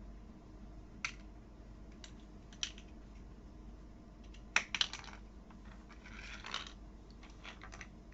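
Small plastic toy building pieces being handled: scattered sharp clicks and clatters, with a brief rattle of pieces being rummaged through about six seconds in.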